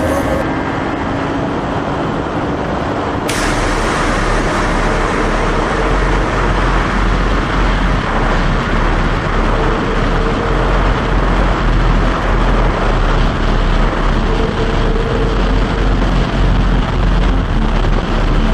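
Motorcycle on the move, a dense, steady rushing noise with little clear engine note; about three seconds in it changes abruptly and a heavier low rumble sets in.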